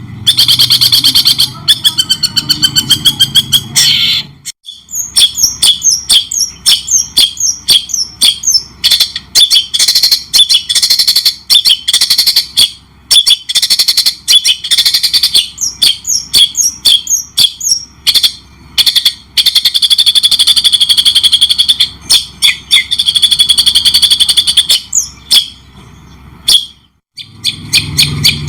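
Songbird singing loudly in fast runs of high, repeated chattering notes and trills, with short breaks about four seconds in and near the end.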